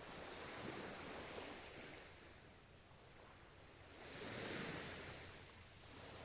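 Ocean surf: two waves breaking and washing in, about four seconds apart, the second one louder.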